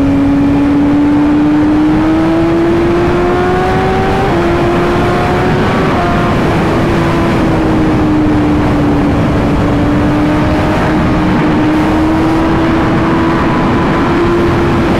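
BMW S1000RR inline-four engine pulling at highway speed under a steady rush of wind and road noise. The engine note climbs for about four seconds, drops briefly as the bike shifts up into fifth, then holds steady while cruising.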